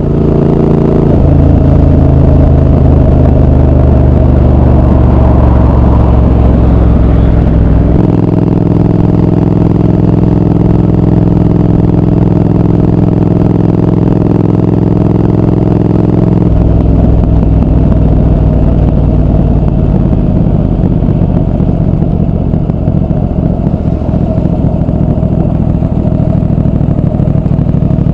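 Triumph Speed Twin 1200's parallel-twin engine and exhaust running steadily under way, the engine note changing pitch about a second in, again around eight seconds in and around sixteen seconds in as the road speed or gear changes.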